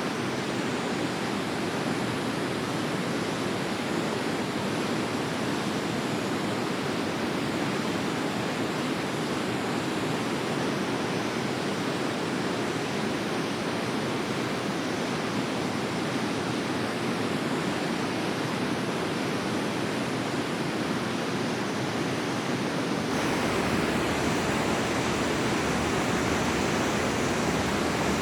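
River water flowing in a steady, even rush, stepping up a little in level about three-quarters of the way through.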